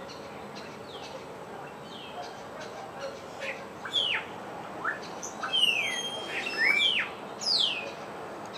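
Several wild birds calling, with a run of loud, quick down-slurred whistles, some overlapping, from about four seconds in to near the end, over steady background noise.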